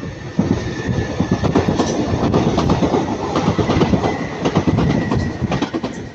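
A train passing at close range, its wheels clacking over rail joints with a faint, steady high-pitched wheel squeal. The sound eases near the end as the train moves away.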